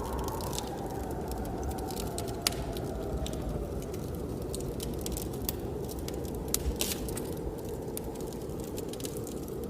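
Wood fire crackling with scattered sharp pops over a steady low rush of blizzard wind; a faint wind whistle rises and falls near the start.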